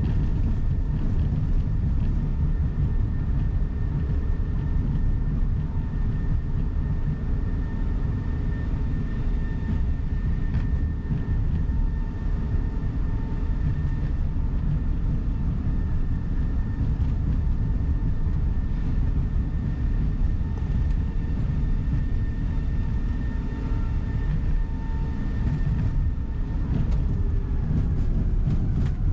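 Steady engine and road rumble of a tour coach heard inside the cabin while it is driving, with a faint steady whine above it that slides slightly lower near the end.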